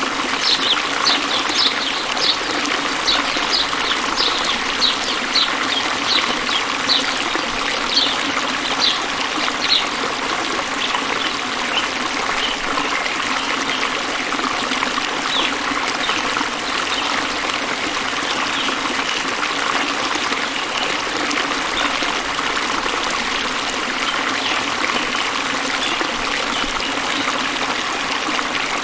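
Running water of a stream, a steady rushing trickle. Over the first ten seconds or so a short high call repeats about once a second above it, with a few fainter ones later.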